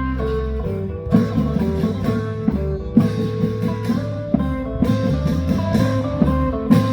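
Loud amplified band music: a plucked-string lead in a guitar-like sound over a steady bass and repeated drum strikes.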